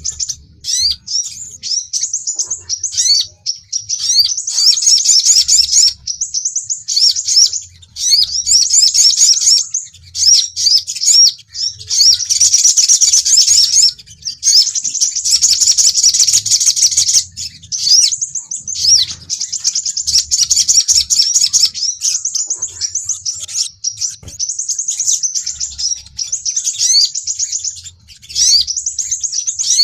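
Rapid, high-pitched sunbird chirps and trills in dense bursts of a few seconds each with short breaks: recorded calls of the crimson sunbird (sepah raja) and the sogon, played as a lure to draw in territorial birds.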